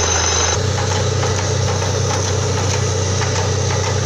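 Engine of a borewell drilling rig running steadily with a heavy hum. About half a second in, its pitch steps up slightly and a high whine cuts out.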